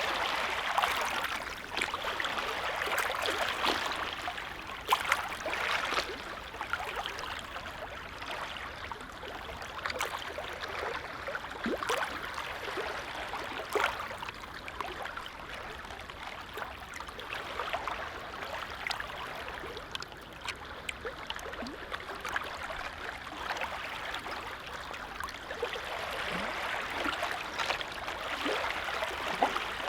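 Gentle waves on a calm lake, lapping and splashing: a steady wash of water broken by many small, sharp splashes, swelling and easing gently.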